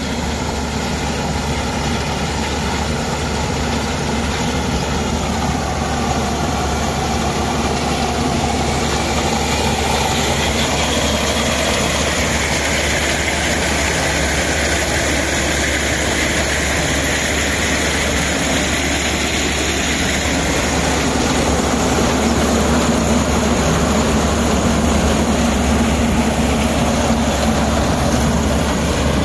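Self-propelled garlic combine harvester running steadily: a continuous engine and machinery noise, with higher tones that slowly rise and fall in pitch.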